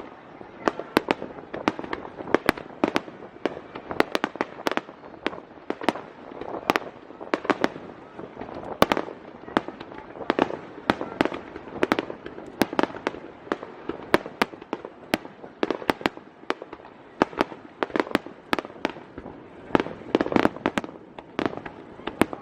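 Aerial fireworks shells bursting overhead in quick succession, many sharp bangs a second over a constant rumble of echoing reports.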